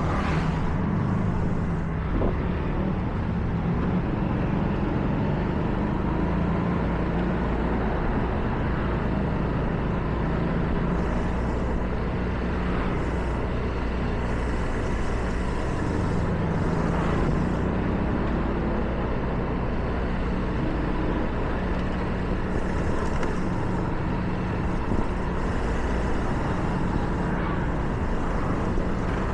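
Car driving on wet roads: a steady low engine and road drone with tyre hiss, and several brief swells of higher hiss.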